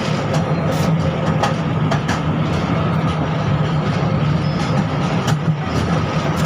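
A 71-605 (KTM-5M3) tram running, heard from inside the car: a steady low hum and rumble with a few short clicks.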